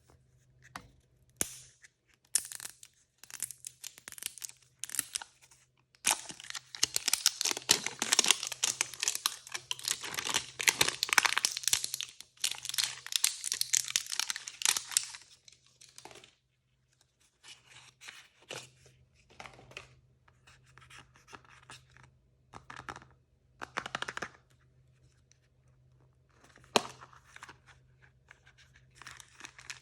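Plastic blind-bag packaging being torn open and crinkled by hand. A long, dense stretch of tearing and crackling comes in the first half, followed by scattered short rustles and one sharp click later on.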